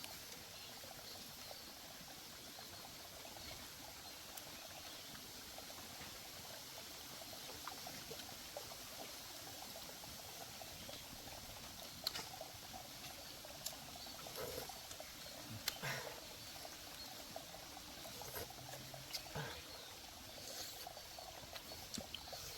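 Faint, steady trickle of a flowing stream, with a few sharp clicks and brief knocks scattered through it.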